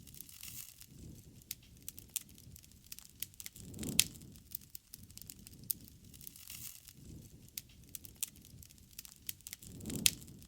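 Wood fire crackling, with scattered sharp pops over a low rush of flame that swells twice, about four seconds in and near the end, each swell ending in a loud pop.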